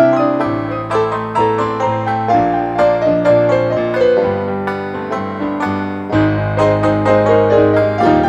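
Honky-tonk piano music: a run of melody notes over held bass notes that change every second or two.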